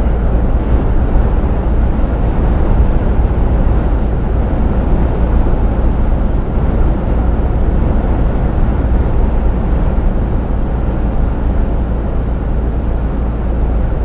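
Steady low rumble of a lorry driving at motorway speed, engine and road noise heard inside the truck's cab.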